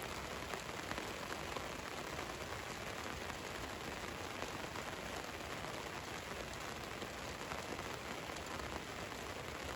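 Steady rain drumming on a van's metal roof, a dense patter of drops with faint individual ticks.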